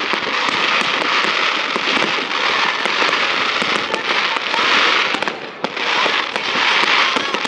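Aerial fireworks crackling densely, a continuous fizzing crackle studded with many sharp pops, easing briefly about five and a half seconds in before building again.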